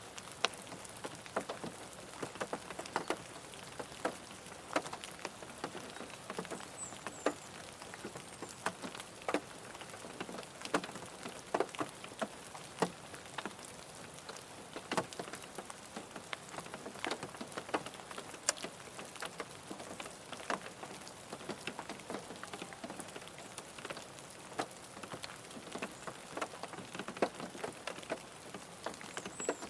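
Rain falling on a car: a steady patter with many separate sharp taps of single drops striking.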